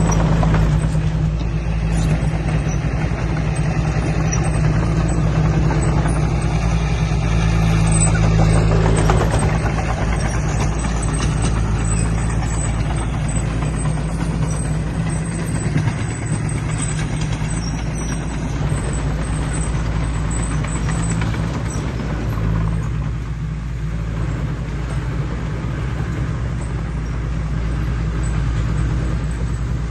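Heavy diesel engine of earthmoving equipment running steadily, a deep low drone, with the higher noise dropping back somewhat in the second half.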